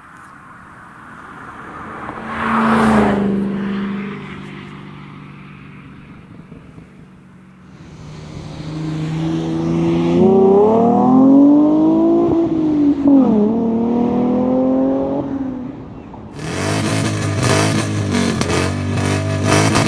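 Car engine heard through its exhaust: a sharp blip about two seconds in that settles back to a steady idle, then revs climbing and falling twice in the middle. A different engine sound cuts in abruptly near the end.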